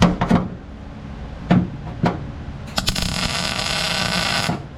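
A few sharp metal knocks, then a short burst of welding on the car's sheet-metal floor pan: a steady hiss of under two seconds that cuts off suddenly.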